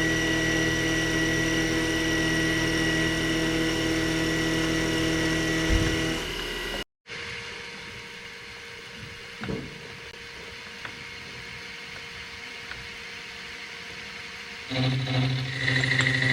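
A machine tool's motor runs steadily with a whining tone, then winds down about six seconds in. After a break comes a quieter hum with a few light knocks, and near the end the machine starts up again and runs.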